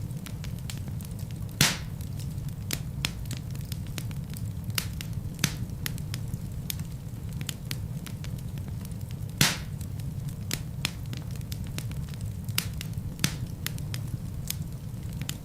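Wood fire burning in a fireplace: a steady low rumble of the flames with scattered sharp crackles and pops of burning logs, two louder pops standing out.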